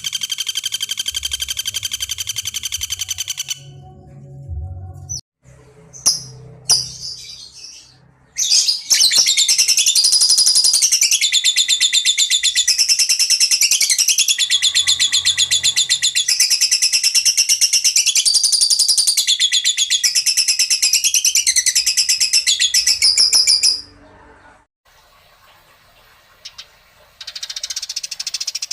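Songbird song made of very rapid, buzzy trills: a short trill at the start, a few scattered calls, then one unbroken trill of about fifteen seconds that steps up and down between pitches and cuts off suddenly, with quieter calls near the end.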